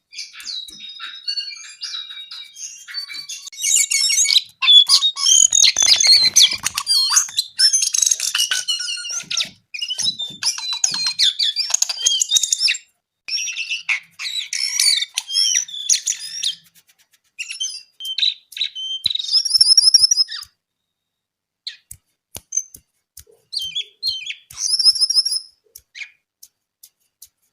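Jongkangan coklat songbird in full, continuous song: rapid high chirps and twittering phrases, busiest in the first half, then a short pause and a few shorter high trills.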